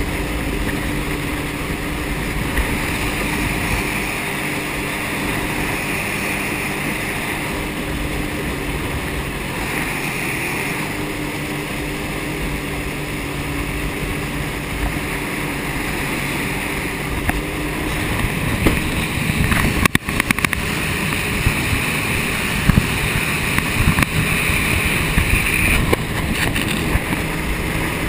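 Jet ski engine running steadily under way, with wind buffeting the microphone. From about two-thirds of the way through, irregular thumps and splashes join in.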